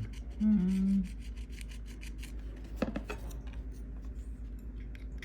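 Old screen adhesive being scraped and rubbed off the edges of a GoPro 10's screen frame: a quick run of short scratching strokes.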